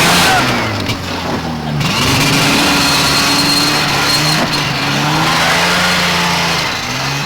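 Vehicle engine revving, its pitch rising and falling, as it tries to work free while stuck in the snow.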